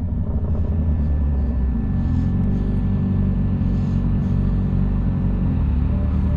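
Motorcycle engine running under way with wind and road noise, a steady low drone; the engine note shifts slightly about five and a half seconds in.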